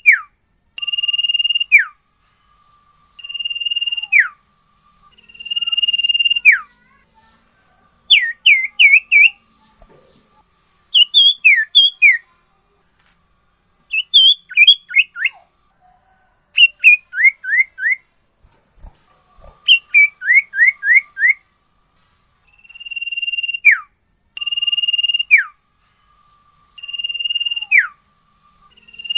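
Sirtu bird singing clear whistles: long level notes, each ending in a sharp downward slide, then from about eight seconds in quick runs of three to five falling notes, and long slurred whistles again near the end.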